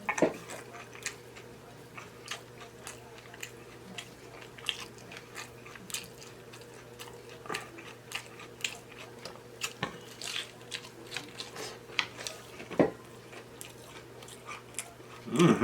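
Close-miked mouth sounds of a person biting and chewing a loaded taco in a nacho cheese taco shell: irregular wet clicks and crunches. There is a louder bite about 13 seconds in and another near the end.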